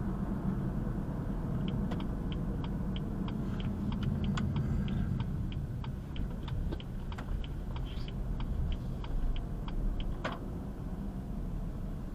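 Steady low rumble of a motor vehicle, with a regular light ticking at about three ticks a second through most of the stretch.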